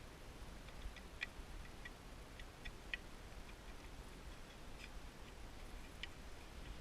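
Faint, irregularly spaced light clicks, about eight of them, over a low steady background hum.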